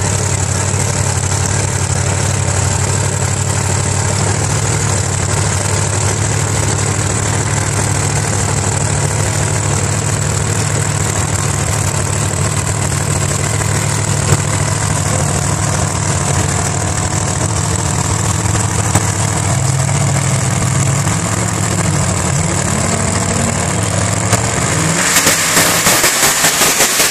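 Drag-racing 1957 Chevrolet Nomad engine idling at the starting line, a loud, steady low rumble. About 24 seconds in, the engine note rises and then switches to a loud rapid pulsing as the car launches at full throttle.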